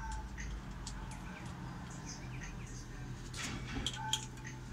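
Small birds chirping intermittently, with a few sharp light clicks from about three and a half seconds in.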